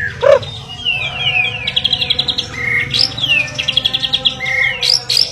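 White-rumped shama (murai batu) singing: a run of quick descending whistled notes and rapid high trills, with a short lower call right at the start.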